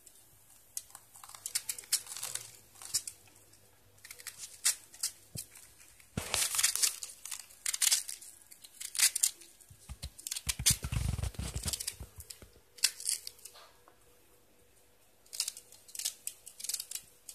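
Tearing and crinkling in short irregular bursts, with a heavier, lower-sounding stretch just past the middle and a pause of about a second near the end.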